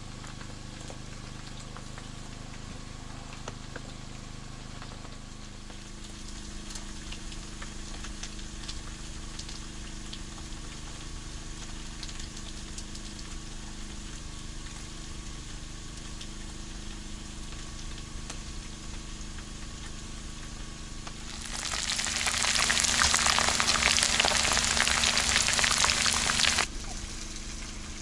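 Food frying, with a steady low sizzle and faint ticks. About 21 seconds in, a much louder burst of sizzling starts and runs for about five seconds, then cuts off suddenly.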